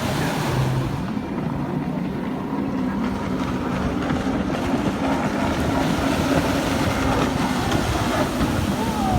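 Jet ski engines running in a steady drone.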